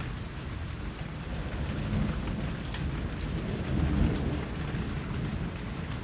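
Steady rain falling, with scattered drop ticks and a low rumble underneath that swells to its loudest about four seconds in.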